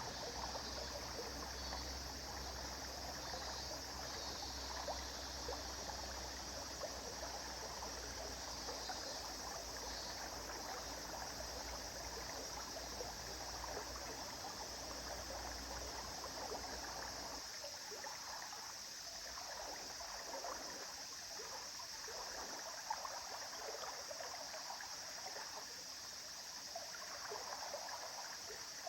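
River water flowing steadily over stones, trickling and gurgling without pause. A low rumble underneath stops a little past halfway.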